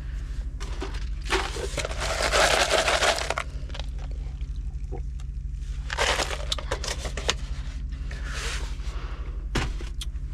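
Rustling and crinkling handling noise in a truck cab, in three bursts of a second or two each, with a sharp click near the end, over the steady low hum of the idling Peterbilt 579 truck.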